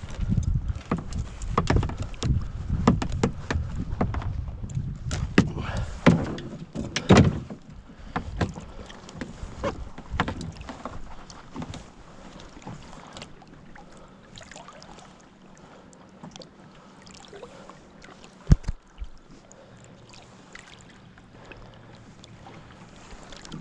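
Knocks, bumps and clatter of handling on a fishing kayak over a low rumble, busiest in the first eight seconds, then quieter with scattered clicks and one sharp knock near the end.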